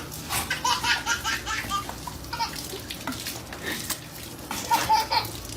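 Water splashing and sloshing, with people laughing in short repeated bursts.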